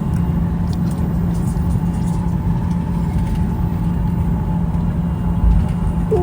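Airliner cabin noise on the ground as the plane taxis: a steady rumble of the engines and airflow with a constant low hum, and a brief low bump about five and a half seconds in.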